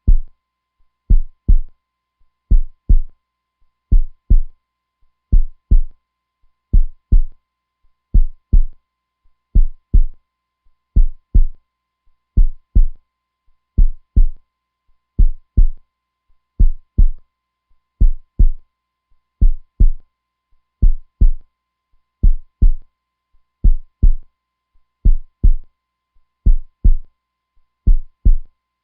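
Heartbeat sound: a slow, steady lub-dub, each beat a pair of low thumps, repeating about every second and a half.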